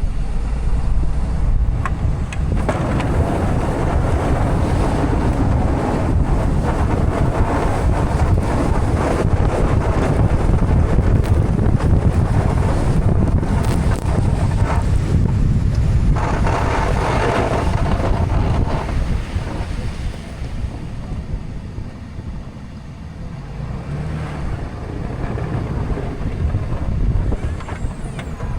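Wind buffeting the microphone over a low vehicle rumble, loudest for most of the stretch and easing after about twenty seconds.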